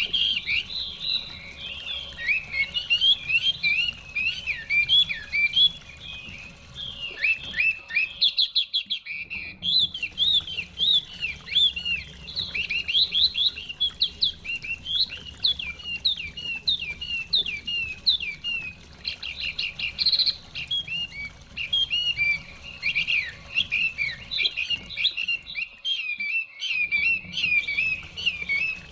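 Chinese hwamei singing a long, rich run of rapid, varied whistled phrases, over a low steady hush of running stream water that drops out briefly twice.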